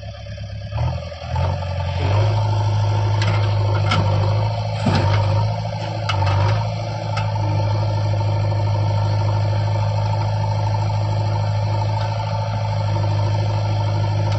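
Heavy machinery diesel engine running steadily at a constant pitch, starting up loud about a second in, with a few knocks and clicks over the first several seconds.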